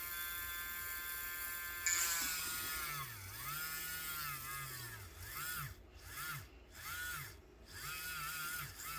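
Electric nail drill with a small drill bit running as a steady whine, then drilling into a cured UV resin piece from about two seconds in: the whine gets louder and drops and recovers in pitch again and again as the bit is pressed in.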